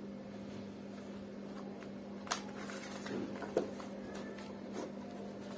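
A few light clicks and knocks of plastic parts being handled as a vacuum cleaner's motor cover is taken off. The two sharpest clicks come a little over two and about three and a half seconds in, over a steady faint hum.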